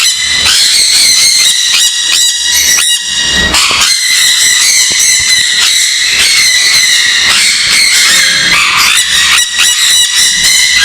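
Many caged parrots calling at once: a loud, unbroken din of shrill, harsh, overlapping calls.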